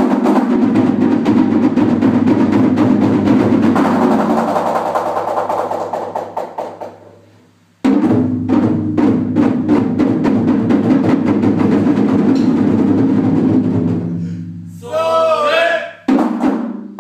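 Japanese taiko drums beaten in a fast continuous roll that dies away, then starts again suddenly about eight seconds in. Near the end a voice calls out, followed by separate, evenly spaced drum strikes.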